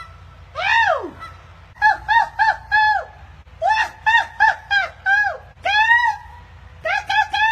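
A woman's loud 'Woo!' call about a second in, answered by geese honking in quick runs of four to six short calls.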